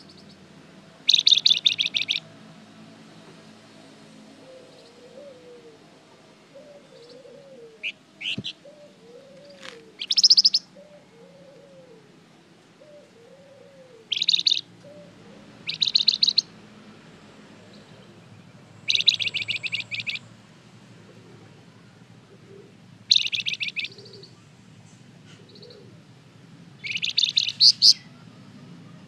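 Flamboyan songbird singing short, rapid, high trills of about a second each, repeated every few seconds. Fainter, lower, arched notes repeat between the bursts in the first half.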